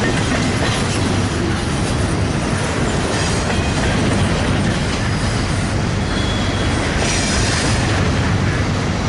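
Freight train cars rolling past at trackside, a loud steady rumble and clatter of steel wheels on rail, with a few brief high squeals from the wheels.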